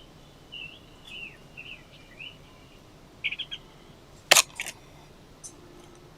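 Small forest songbirds chirping in short high phrases, then a quick run of chirps. About four seconds in comes a single sharp click, louder than the birds, followed by a couple of fainter clicks.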